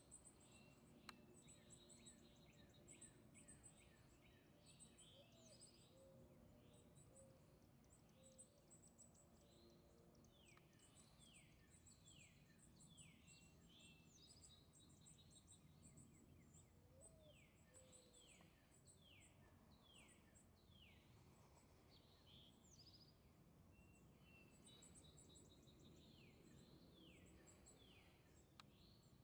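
Faint birdsong outdoors: several birds calling, with many short downward-slurred whistles and rapid high chirps repeating throughout, over a low steady background hiss.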